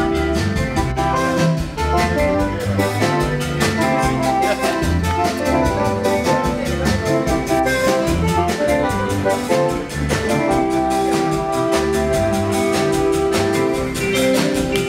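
Live band playing an instrumental passage with a steady beat.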